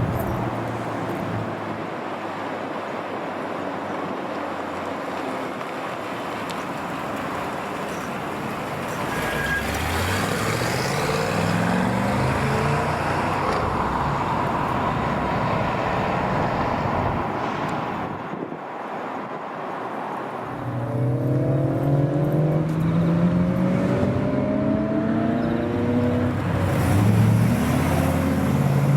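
Car engines accelerating over a steady wash of traffic noise. The engine note climbs in pitch about nine seconds in, and again, louder, from about twenty-one seconds to near the end.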